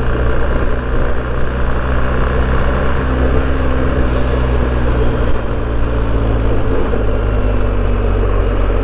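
BMW R1250GS motorcycle's boxer-twin engine running at a steady cruising speed, with wind and road noise over it.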